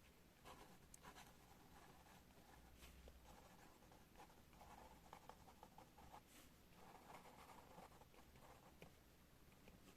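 Pen writing on paper: faint, scratchy strokes that come in short bunches as words are formed, with brief pauses between them.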